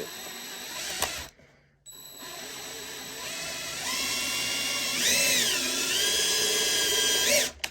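Power drill boring a hole through scrap wood: a steady motor whine starts about two seconds in, dips briefly in pitch midway as the bit loads up, recovers, and stops just before the end.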